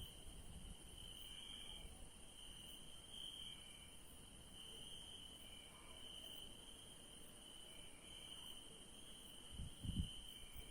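Crickets chirping at night in a steady, pulsing high trill, with a second, higher insect chorus behind it. A brief low rumble comes near the end.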